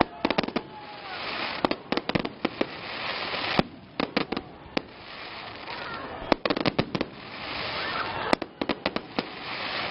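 Aerial fireworks shells bursting overhead: sharp bangs in quick clusters every second or so, over a steady noisy background.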